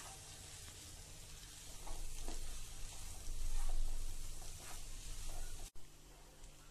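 Boiled chickpeas and spiced masala sizzling in oil in a frying pan while being stirred with a spatula, with several louder stirring strokes in the middle. The masala has been fried until its oil separated. The sound drops off suddenly near the end.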